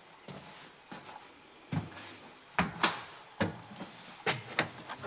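Footsteps climbing steep attic stairs: a series of knocks, some in quick pairs, starting about two seconds in.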